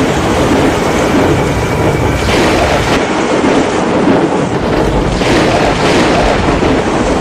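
Loud, steady rushing noise of a heavy storm: driving rain and wind.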